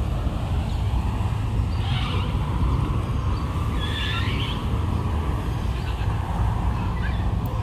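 Birds chirping twice, about two and four seconds in, over a steady low rumble.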